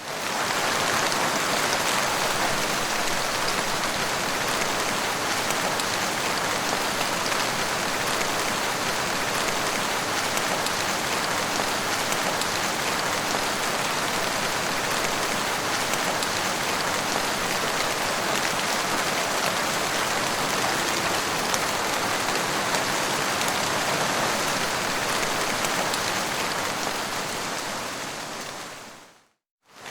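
Steady rain falling, an even wash of drops with no thunder, fading out near the end.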